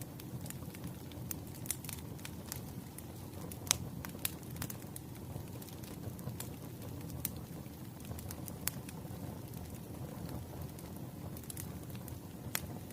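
Firewood burning in a fireplace: a steady low rush of flame with frequent sharp crackles and pops from the logs. The loudest pops come about four seconds in and near the end.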